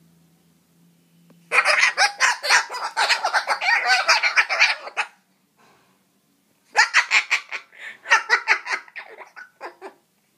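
Cockatoo grumbling: two bouts of rapid, harsh, chattering pulses, the first starting about a second and a half in and lasting about three seconds, the second starting around seven seconds in and trailing off near the end.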